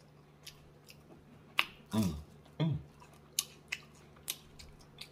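Close-miked chewing of fried yuca fries: a string of short, crisp mouth clicks and crunches, with two brief falling "mm" hums about two seconds in.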